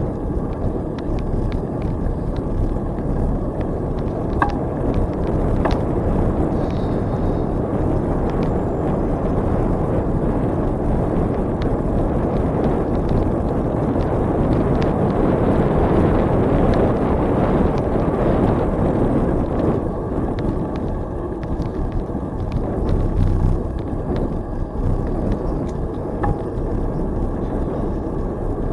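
Steady rushing noise of a bicycle ride along a trail: wind on the microphone and tyre noise, swelling louder in the middle, with a few faint clicks.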